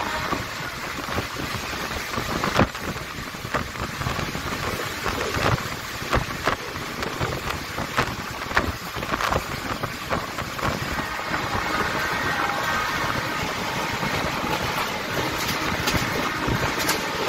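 Passenger train running along the track, heard from aboard: a steady rumble and rush with irregular sharp clacks of the wheels over rail joints. A faint high steady ringing tone comes in during the second half.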